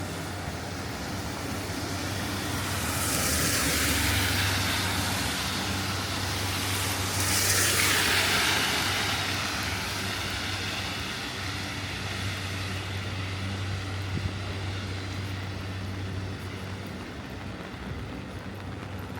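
Two vehicles pass one after the other on a rain-wet street. The hiss of their tyres swells and fades about four seconds apart, over a steady low hum of traffic.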